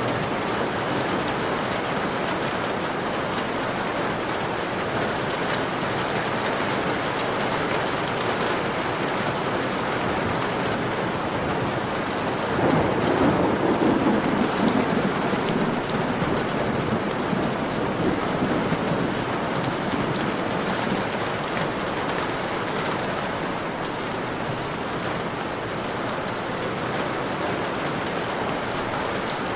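Steady heavy rain pattering on a window pane during a thunderstorm, with a low rumble of thunder swelling a little louder about halfway through.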